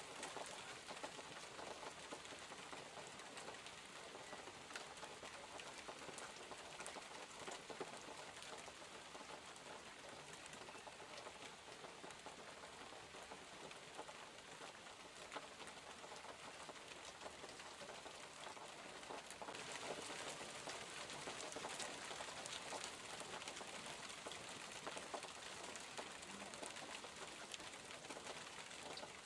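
Steady rainfall, an even hiss dotted with fine drop ticks, growing louder and brighter about two-thirds of the way through.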